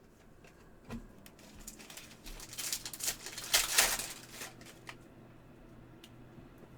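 Trading cards and their packaging being handled: a run of scratchy rustles and clicks, loudest about three to four seconds in, then settling to a faint hum.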